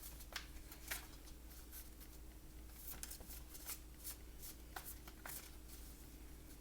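A deck of tarot cards being shuffled by hand: a string of soft, irregular card flicks and taps, a few per second, over a faint steady low hum.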